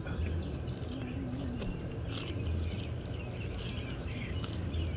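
Outdoor birds chirping repeatedly in short calls, over a low steady rumble.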